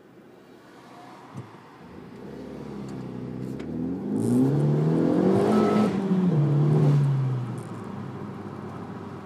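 Renault Mégane III RS 250's turbocharged 2.0-litre four-cylinder engine and exhaust under full throttle in a tunnel, the engine note climbing in pitch and loudness for a few seconds, then easing off and dropping away about two seconds before the end.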